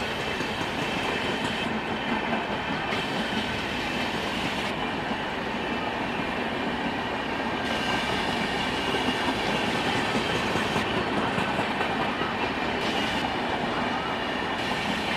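A train moving on the rails, making a steady rolling noise.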